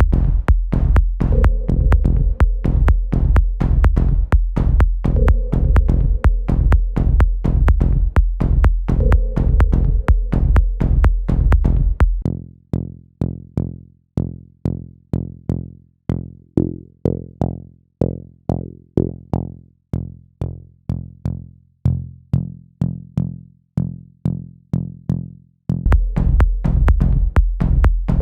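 Electronic dance track in progress playing back: a steady drum-machine beat over heavy bass. About twelve seconds in the beat and bass drop out, leaving one short synth note repeated about twice a second, and the full beat comes back in near the end.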